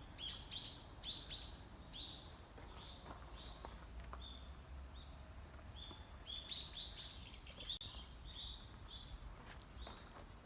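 Small birds chirping: runs of short, high chirps, two or three a second, in two bouts, over a low steady rumble.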